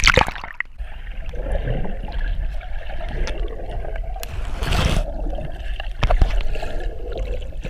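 Pond water sloshing and splashing close by, with a steady low wind rumble on the microphone and a louder surge of splashing about four to five seconds in.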